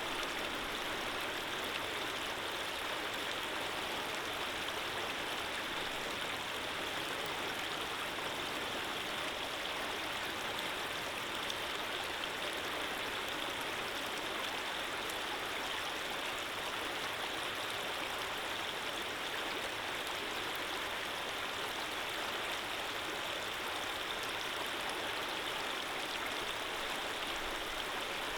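Running water flowing steadily, an even rushing hiss that does not change in level.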